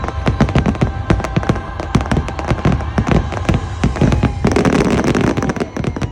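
Fireworks going off in a rapid barrage of sharp bangs and cracks over a low rumble, with a thicker burst of crackling about four and a half seconds in.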